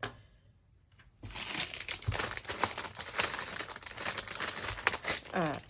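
Paper or plastic being crumpled and crinkled in the hands for about four seconds, a dense crackling made of many small sharp crackles, starting about a second in.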